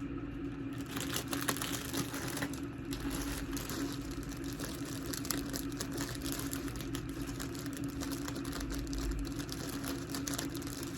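Rapid small clicks and light rustling from items and their plastic packaging being handled, over a steady low hum.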